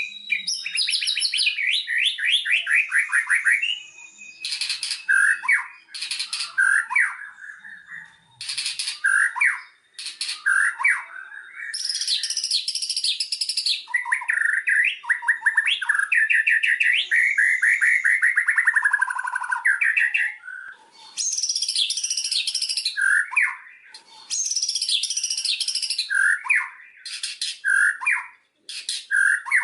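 White-rumped shama (murai batu) song: a long, varied run of fast trills, sweeping whistled phrases and harsh, buzzy chatter with brief pauses, played as a lure recording to provoke other shamas to sing.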